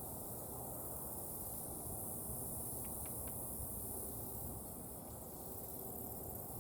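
Red-bellied woodpecker tapping its bill on a pecan nut wedged in a tree knot: three faint quick taps about three seconds in. Under it run a steady high insect hiss and a low outdoor rumble.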